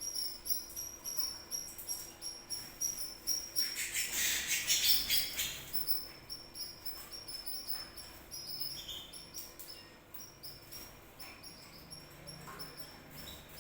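Canary singing: long, fast trills of high chirping notes, loudest about four to five seconds in.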